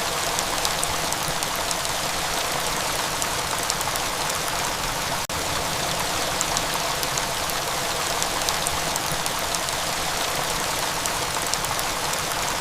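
Steady rain falling, an even hiss with the patter of individual drops. It cuts out for an instant about five seconds in.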